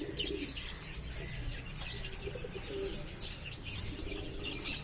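Pigeons cooing in a loft, with short low warbling coos about two to three and a half seconds in, and brief high chirps from birds scattered throughout.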